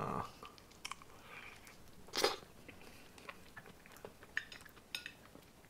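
Close-up mouth sounds of someone biting and chewing ripe Monstera deliciosa fruit off its core: soft wet crunches and small clicks, with one louder bite about two seconds in.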